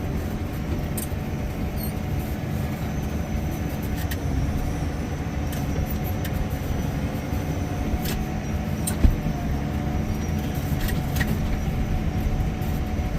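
Front-end loader tractor engine running steadily while the loader bucket is worked, with a few faint clicks and a single sharp knock about nine seconds in.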